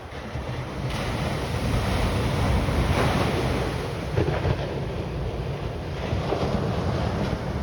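Wind buffeting the microphone over ocean surf, a steady rushing noise with heavy low rumble that grows louder about a second in.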